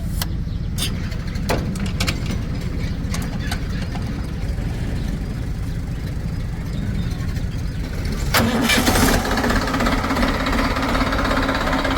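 Diesel engine of heavy machinery running steadily at low revs, with a few sharp clicks in the first couple of seconds. A little over eight seconds in, it gets louder and harsher.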